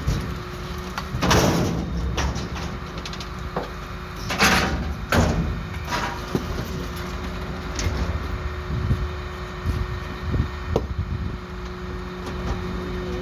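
Geesink garbage truck working at the kerb: its engine runs with a steady hum while the bin lift and compactor make several short, loud bangs and rattles, one about a second in and two more around four to five seconds in.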